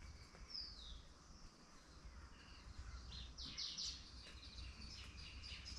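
Small birds chirping faintly: a short whistle gliding down about half a second in, then a quick cluster of high chirps a little past the middle, over a steady low rumble.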